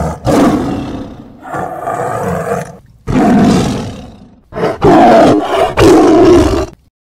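A big cat roaring: a run of about five or six loud, rough roars with short breaks between them, the last ones the loudest.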